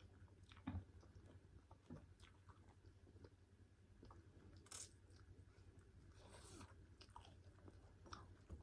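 A person eating pork curry with rice, faintly: chewing and mouth clicks, with two brief crunchy, hissy bursts about halfway through and a little later.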